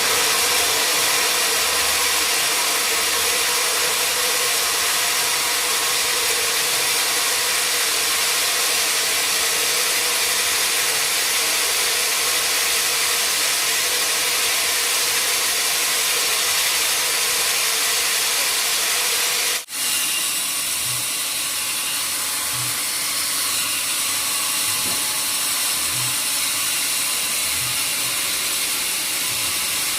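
Sawmill machinery running: a loud, steady, dense hiss with several steady whining tones. The sound drops out for an instant about two-thirds of the way in, then carries on slightly quieter with faint low knocks.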